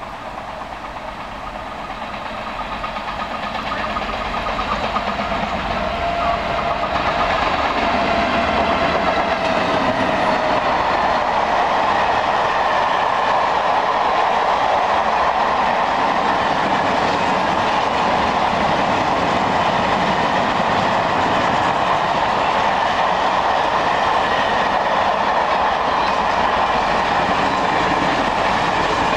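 A train passing through the station, its wheels clattering over the rails. The sound builds over the first several seconds, then holds steady and loud.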